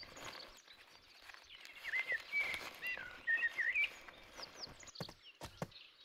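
A songbird singing a short phrase of quick rising and falling whistled notes, the loudest sound, over a faint outdoor background. Near the end come a few sharp clicks of a young ibex's hooves stepping on dry, stony ground.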